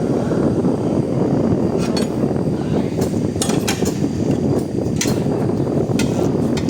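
A steady low rumble of machinery runs throughout, with scattered sharp metallic clinks and knocks, as of metal tools or parts being handled.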